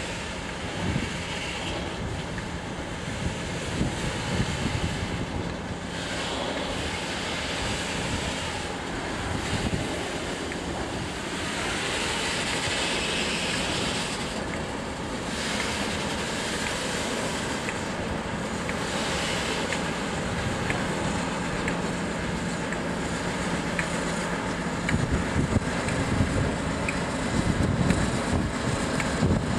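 Diesel works train of container wagons rolling past on the rails, with wind buffeting the microphone and a steady low engine drone. It gets louder near the end as a locomotive passes close, with irregular clicks from the wheels.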